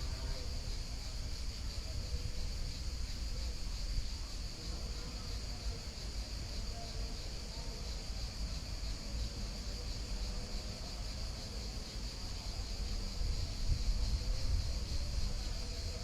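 Steady, high-pitched insect chorus over a low, continuous rumble of flowing river water. Faint pitched sounds come through near the start and again near the end.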